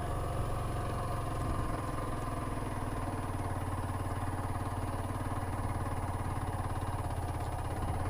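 Yamaha M-Slaz 150 motorcycle's single-cylinder engine running steadily at low revs, with an even, fast pulsing beat.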